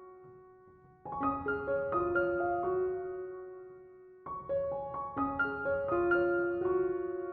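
Background piano music: gentle phrases of sustained notes, each phrase starting with a chord and fading away, the first about a second in and the next just after the fourth second.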